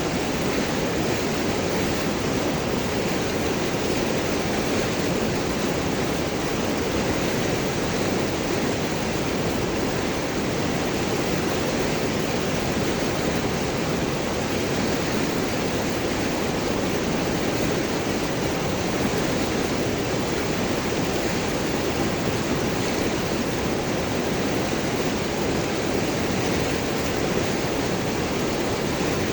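River water rushing and gurgling over and around large rocks, a steady, dense rush with no breaks.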